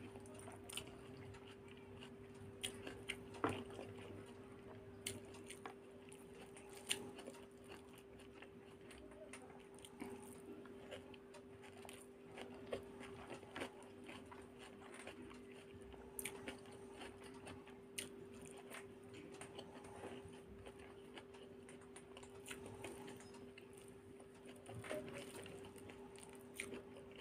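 Close-up mouth sounds of someone eating rice and egg curry by hand: chewing, with scattered sharp smacks and clicks, and soft squishing as fingers mix rice on the plate. A faint steady hum lies underneath.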